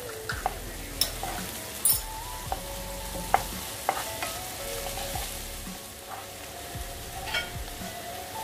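Diced ripe nendran banana frying gently in ghee in a non-stick pan, sizzling steadily while a wooden spatula stirs it, with a few sharp taps and scrapes of the spatula against the pan.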